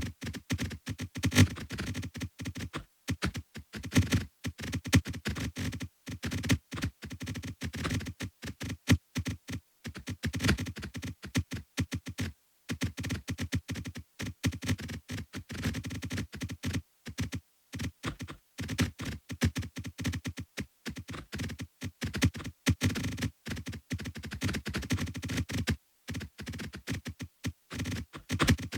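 A rapid, irregular stream of short electronic clicks and thunks, several a second, broken by a few brief pauses.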